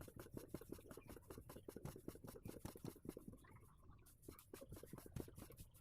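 Faint, quick, even ticking, several clicks a second, while a PCP air rifle is charged with air.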